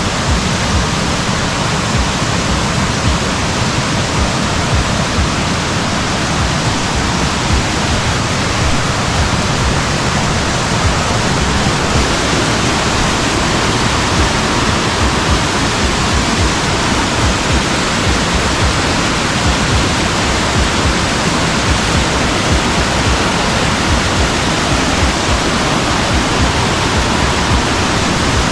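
Loud, steady rushing of a river in flood, swollen by a week of heavy rain.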